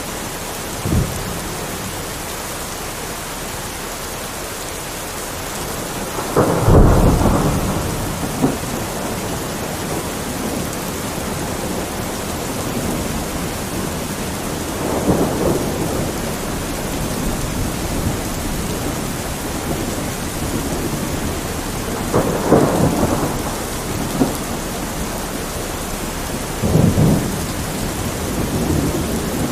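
Steady heavy rain from a thunderstorm, with several rolls of thunder swelling and fading over it; the loudest comes about a quarter of the way in, with further rumbles at intervals of several seconds.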